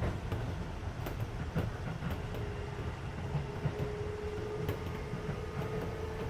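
Keisei 3400 series electric train running, heard from inside the passenger car: a steady low rumble with a few sharp rail-joint clicks, over the car's air-conditioning noise. A faint whine comes in about two seconds in and rises slightly in pitch.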